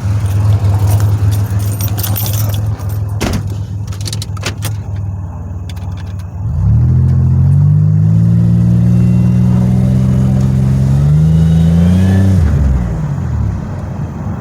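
The 2007 Pontiac Grand Prix GT's supercharged 3.8-litre V6 is running. Keys jangle and click over the first few seconds. About six seconds in, the engine's pitch climbs as the car accelerates, holds, rises a little more, then drops near the end.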